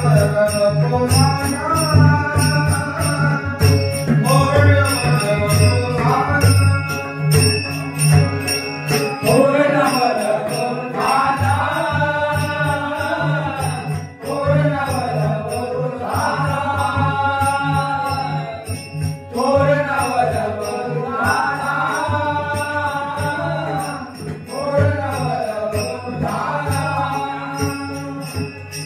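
Marathi Varkari bhajan: a male lead singer (buva) singing long devotional phrases, with small hand cymbals clinking in a steady fast rhythm and a low drum beneath.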